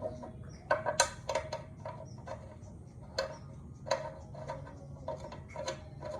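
Irregular metallic clinks and taps, each ringing briefly at the same pitch, as parts and tools of a 355 mm aluminium cutting saw are handled during assembly.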